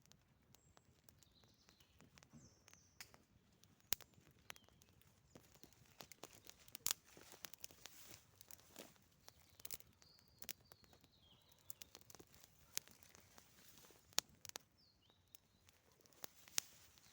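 Wood campfire crackling, with irregular sharp pops, a few of them louder than the rest.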